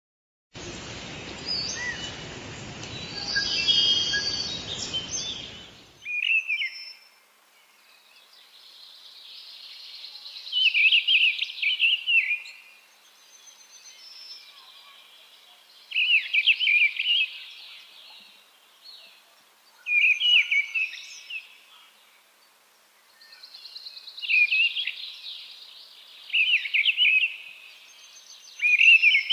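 Mistle thrush singing: short, clear phrases of a second or two, repeated with pauses of a few seconds between them. The first five seconds are a stretch of rushing noise with a few higher notes in it.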